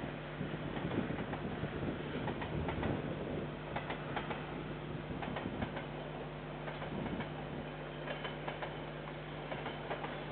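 KiwiRail container freight train's wagons rolling past, wheels giving irregular clicks and rattles on the track, over a steady electrical hum.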